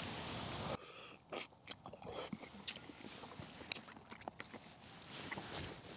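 A man chewing a mouthful of fettuccine Alfredo close to a clip-on microphone: faint, irregular small clicks and mouth sounds.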